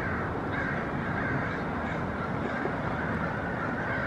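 A bird calling over and over, about twice a second, over a steady low background noise.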